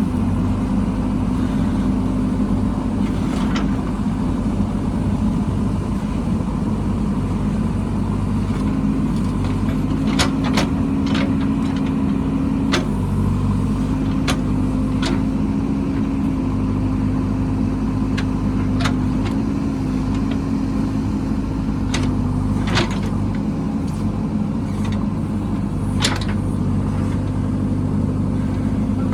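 Diesel engine of heavy earthmoving equipment running steadily at a constant pitch, with scattered sharp knocks or clanks, most of them in the middle and latter part.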